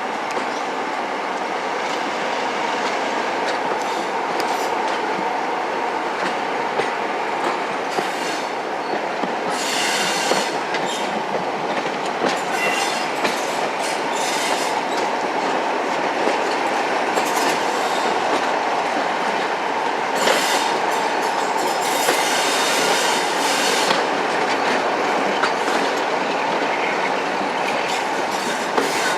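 Heritage diesel-hauled train running on the line, a steady drone with wheel-on-rail noise and light ticks. Bursts of higher-pitched wheel squeal and hiss come about ten seconds in, again a few seconds later, and between about twenty and twenty-four seconds.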